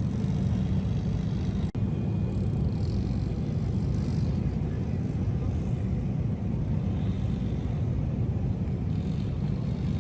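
Steady low rumble of vehicle traffic, with a brief dropout about two seconds in.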